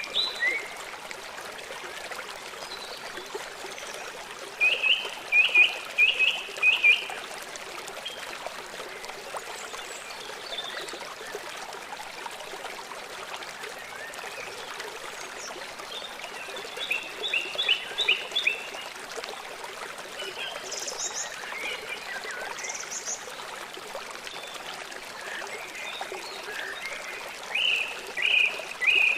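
A songbird singing short phrases of quick repeated chirps, about every eleven seconds, with scattered single chirps between. Under it runs a steady trickling stream.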